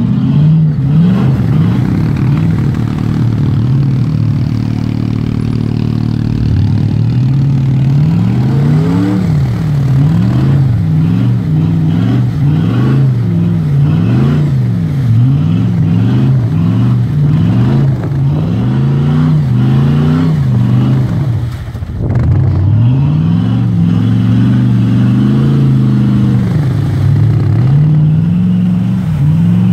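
Jeep's LS2 V8 engine under hard throttle as it churns through deep sand and mud, first holding high revs, then revving up and down about once a second. The revs drop briefly a little over two-thirds of the way through, then the revving picks up again.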